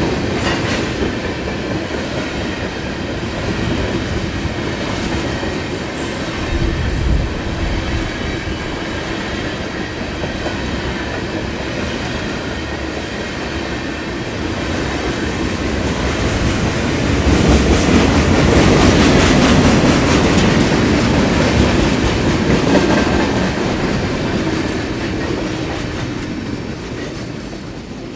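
Norfolk Southern train NS-122's cars rolling past on the track with a continuous rumble and clatter of wheels on rail, plus some wheel squeal. It grows louder about two-thirds through and fades near the end as the train draws away.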